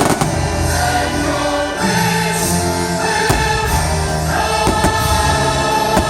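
Orchestral fireworks-show soundtrack with a choir singing sustained chords, and a few sharp firework bangs about halfway through.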